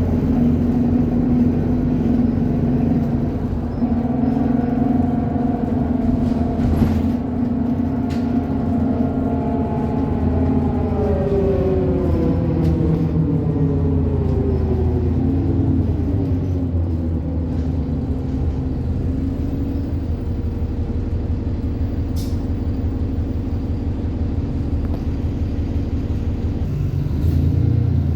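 ADL Enviro 400 double-decker bus under way, its engine running with a steady low drone and a tram-like whine. About a third of the way in the whine falls steadily in pitch as the bus slows, then the drone holds steady and picks up again near the end.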